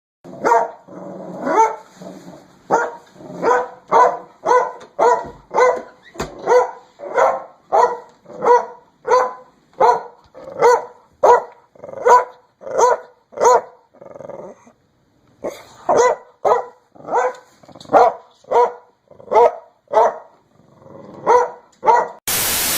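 A dog barking over and over at a steady pace of about two barks a second, with a short break about two-thirds of the way through. A brief burst of static cuts in at the very end.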